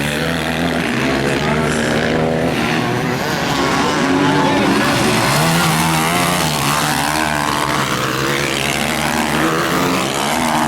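Motocross bikes racing on a dirt track, their engines revving, with overlapping engine notes rising and falling as the throttles open and close.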